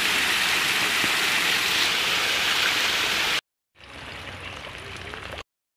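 Heavy rain pouring down steadily, dense and loud. It cuts off a little past three seconds, comes back more softly for under two seconds, then stops.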